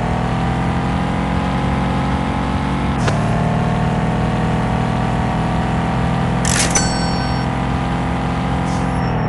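Fiat Doblo van's engine running under way, its pitch climbing slowly, with a brief dip about three seconds in and a drop at the end. A sharp click with a short high ring comes about two-thirds of the way through.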